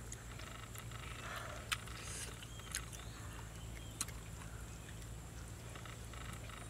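A child chewing a piece of cooked snake meat, with a few soft, sharp mouth clicks over a steady low hum.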